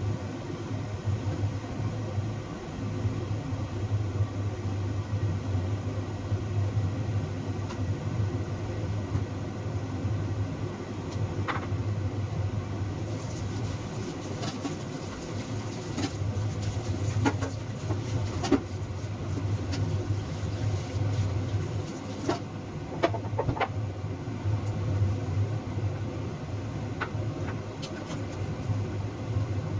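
A steady low hum, like a motor or fan running, with scattered short clicks and light knocks.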